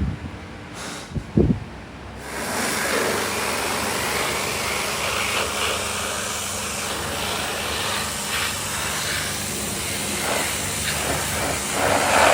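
Heavy water falling on a car's body in a rain-leak test: a steady, dense hiss that starts abruptly about two seconds in. A single low thump comes just before it.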